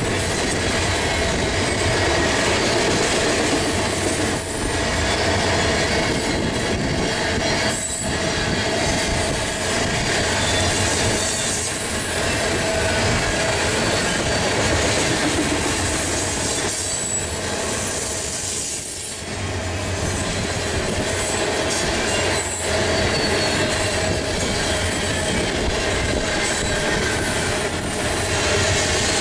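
Freight train of tank cars rolling past at speed: a steady, loud noise of steel wheels on rail, with thin high-pitched wheel squeal. A few sharp clacks sound as the cars pass.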